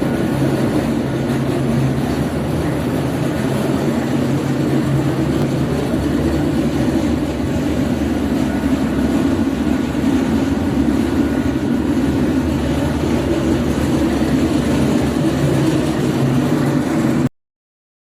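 Charcoal grinder running steadily: a constant loud mechanical rumble with a low hum, which cuts off abruptly near the end.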